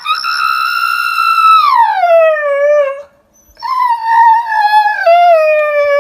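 A dog howling: two long howls. The first is held high, then slides down. After a brief break, the second comes in lower and wavers up and down.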